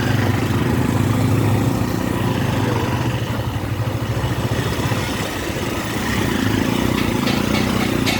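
Motorcycle engine running steadily with a fast low pulsing. A few short clicks come near the end.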